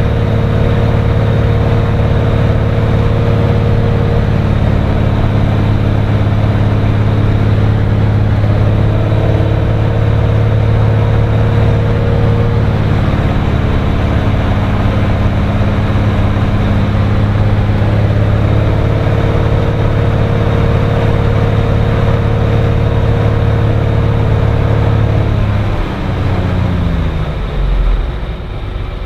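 Cirrus SR20's piston engine and propeller droning steadily, heard inside the cockpit. Near the end the pitch slides down and the sound drops as power is pulled back.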